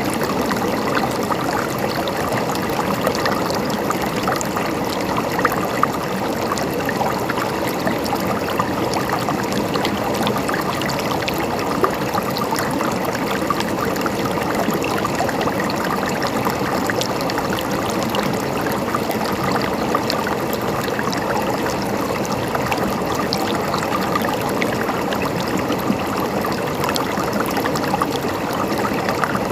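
River water flowing and babbling over stones, a steady rushing sound with constant small splashes and gurgles.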